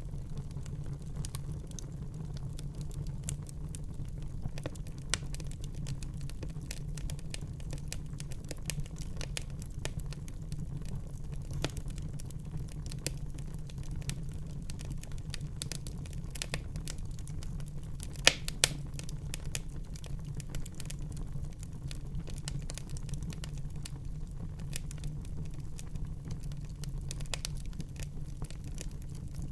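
Wood fire burning in a fireplace, crackling with a dense run of sharp pops over a steady low rumble of the flames. Two louder pops come close together a little past halfway.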